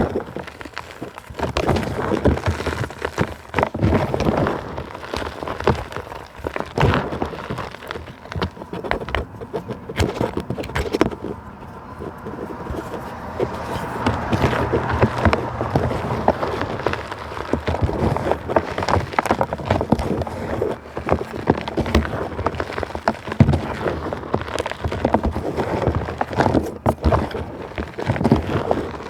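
Dry plant material being crushed and crunched in a dense, irregular run of crackles and snaps.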